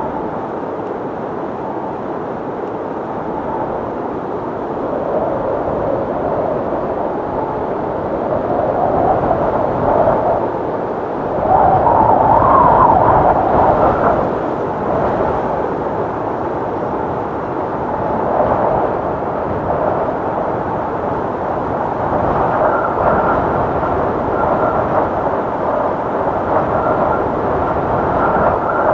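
Wind sound effect: a steady rush of wind that swells into stronger gusts around the middle. In the last few seconds a thin whistling tone rides on top.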